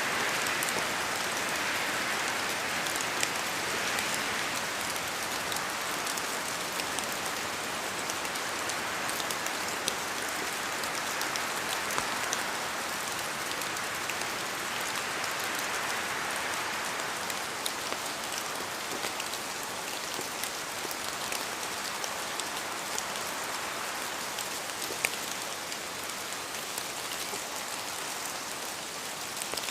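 Steady rain falling through forest trees, a constant hiss with many scattered drop ticks from water dripping off the leaves.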